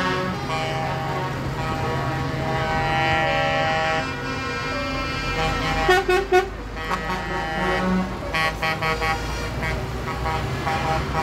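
Truck air horns sounding, several pitched horns at once over running truck engines. Long held blasts in the first few seconds give way to short, repeated toots in the second half.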